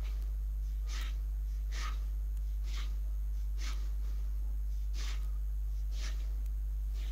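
Steady low electrical mains hum in the recording chain, with about six short soft hissing sounds roughly once a second.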